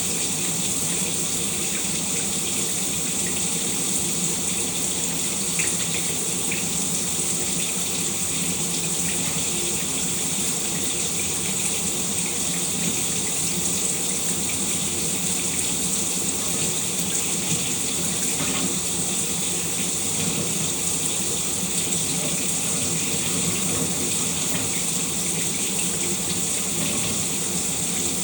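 Shower running: a steady spray of water falling without a break.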